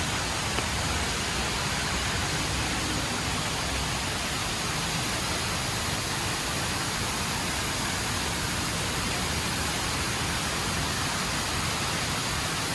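Steady rush of a tall indoor waterfall, water pouring down a funnel and crashing into the pool below, an even hiss and roar with no breaks.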